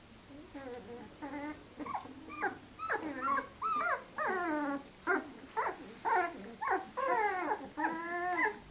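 Dalmatian puppies squeaking and whining in a quick run of short, high-pitched cries, some rising and some falling in pitch, growing louder and more frequent a couple of seconds in.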